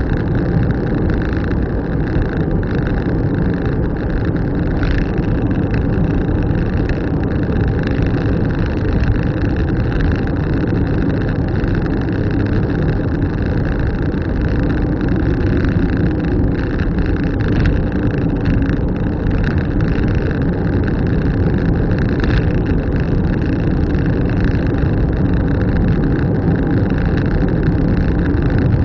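A car being driven: steady engine and tyre road noise, with a few faint knocks.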